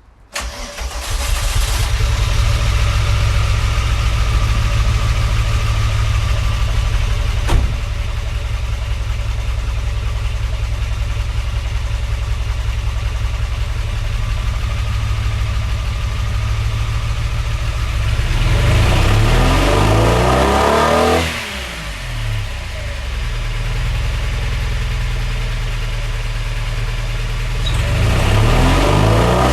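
VW Corrado's VR6 engine starts about half a second in and settles to a steady idle. It is then revved up and let fall back twice, once about two-thirds of the way through and again near the end.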